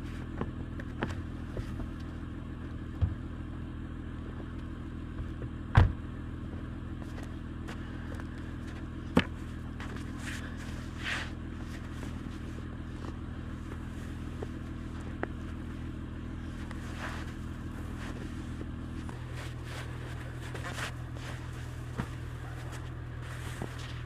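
Car engine idling steadily, its hum shifting a little near the end, with scattered knocks and scrapes of snow being cleared from around the car; the loudest is a sharp knock about six seconds in.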